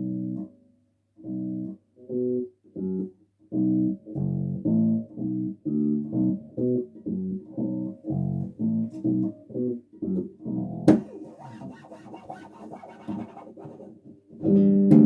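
Bass guitar played in short, separated plucked notes and chords with brief silences between them, speeding up into a busier phrase. About eleven seconds in there is a sharp click, followed by some string scrape noise.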